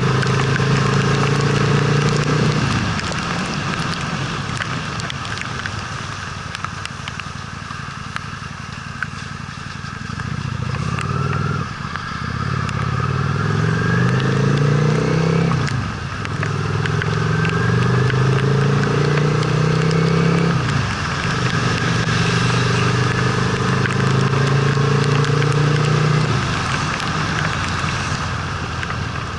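Honda Steed V-twin motorcycle engine under way over a steady hiss of wind and wet road. It runs steadily, goes quiet off the throttle for several seconds, then pulls again with two brief dips like gear changes, and eases off near the end.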